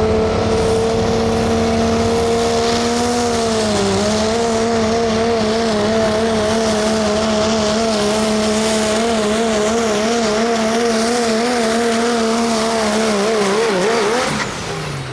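Limited Pro Stock diesel pickup truck pulling a sled with its engine held at high revs under full load. The pitch dips about four seconds in, then wavers rapidly up and down, and the engine drops off near the end as the throttle is let off.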